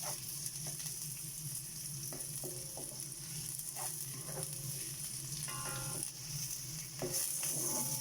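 Chopped onion and garlic sizzling in hot oil in a pan as they are sautéed, with the short scrapes and taps of a spatula stirring against the pan. The sizzle grows louder about seven seconds in, over the steady hum of a kitchen exhaust fan.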